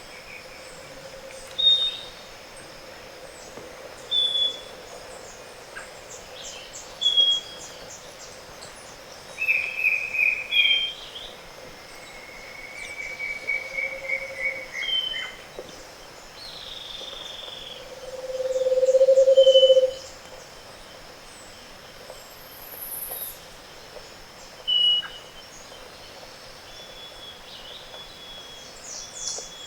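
Dawn chorus of Andean forest birds: short whistled calls and chirped trills from several species. Through it run low hooting phrases, the loudest a trilled low hoot that swells and fades about two-thirds of the way in, fitting the Scaled Antpitta's song. A steady faint high insect whine sits underneath.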